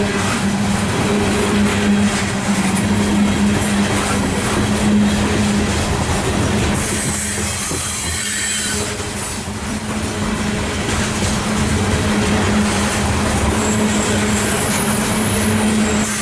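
Loaded coal cars of a CSX freight train rolling past close by, with a steady loud rumble and clatter of wheels on the rails. High, thin wheel squeal comes and goes, about halfway through and again near the end.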